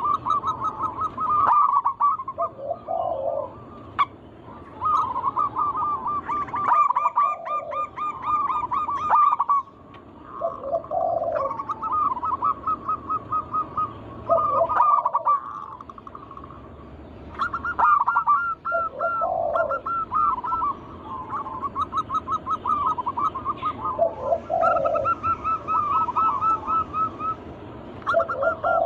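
Zebra doves (perkutut) cooing: repeated phrases of quick staccato notes, each phrase a few seconds long and set off by lower notes, with phrases from more than one bird overlapping.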